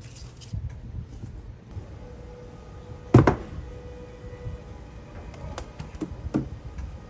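Kitchen items being handled and set down on a counter: one loud thunk about three seconds in and a few lighter knocks in the last couple of seconds.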